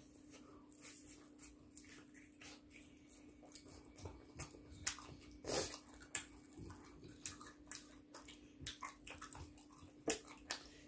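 Two people chewing sauced chicken pieces: a run of short, irregular wet smacks and small clicks. A faint steady hum runs underneath.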